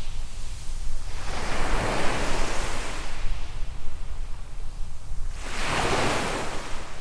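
Small waves washing onto a sandy beach: one surge of surf about a second in that lasts a couple of seconds, and a shorter one near six seconds, over a steady low rumble.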